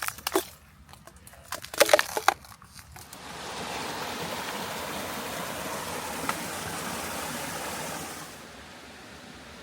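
A few sharp cracks and crunches, then from about three seconds in, the steady rush of Bells Canyon Creek's lower waterfall, dropping a little in level near the end.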